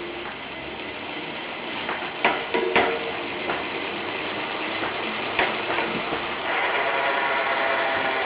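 Bicycle hub on a Giant Anthem X3 mountain bike ticking rapidly as the wheel spins, a fast clicking buzz with a few louder knocks about two and a half and five and a half seconds in. From about six and a half seconds the buzz gets louder and more even.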